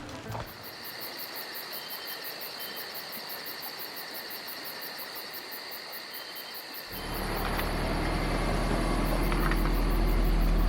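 Insects, cricket-like, chirping in a steady high-pitched trill with rapid regular pulses. About seven seconds in, a car's low steady rumble starts and grows louder, with the insects still faintly heard.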